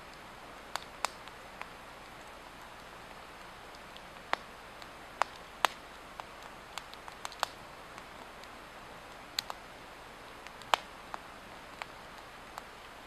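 Swedish torch, an upright split log burning from the inside, crackling: irregular sharp pops of burning wood over a steady hiss.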